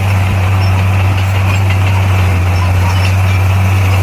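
Heavy diesel engine of earthmoving equipment running steadily, a loud, even low hum with no change in speed.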